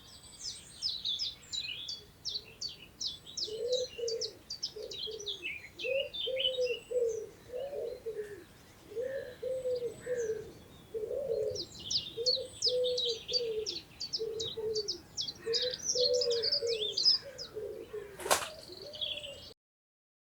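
A songbird sings in two long bouts of rapid high chirping notes, while a pigeon coos over and over in low, arched notes underneath. There is one sharp click near the end.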